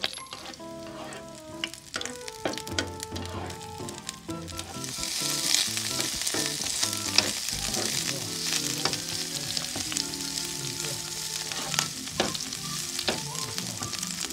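Chopped garlic frying in hot oil in a pan. About five seconds in, sliced onion goes in and the sizzling grows much louder, with a metal utensil clicking against the pan as the garlic-and-onion base is stirred.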